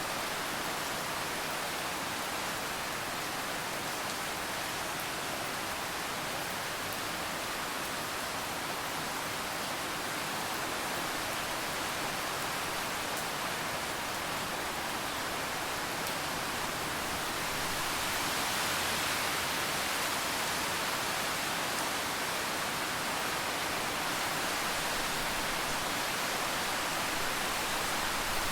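Steady rain falling, a dense even hiss of drops that swells slightly about two-thirds of the way through.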